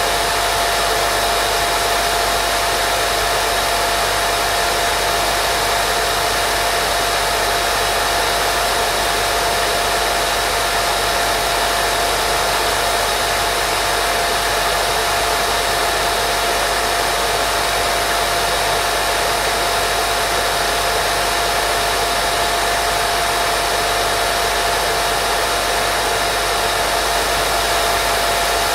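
Continuous steady white noise played as a baby sleep sound, unchanging in level, with a thin steady tone running through it.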